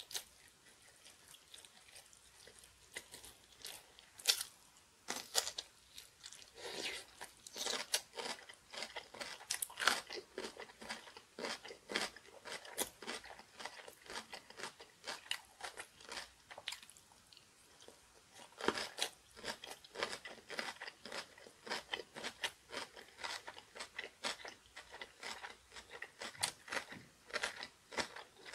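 A person chewing kimchi close to the microphone: crisp crunching bites over and over, sparse at first and coming thick and fast from about six seconds in.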